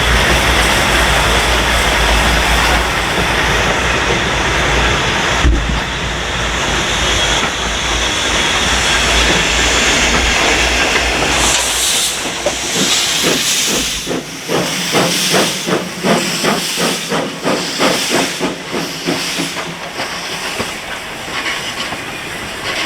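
Pt47 steam locomotive and its train going past: a steady hiss of steam with a low rumble, then from about halfway a quick regular clatter, two or three beats a second, that fades toward the end.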